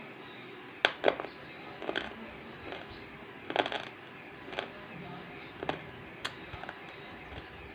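Dry Multani mitti clay crunching, with about nine sharp, crisp cracks at irregular spacing over a steady hiss. The loudest cracks come about a second in, with a quick cluster about halfway through.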